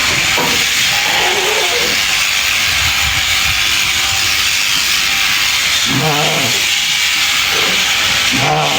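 Electric sheep shears running with a steady loud hiss. A sheep bleats twice, about six seconds in and again near the end.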